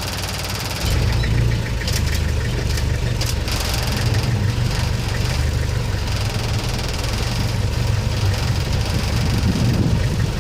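Safari jeep engine running, a steady low rumble that gets louder about a second in.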